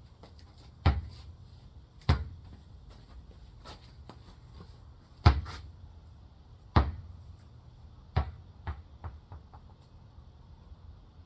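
Irregular knocks and thumps on a hard surface: five louder hits, each with a low thud, and lighter taps in between.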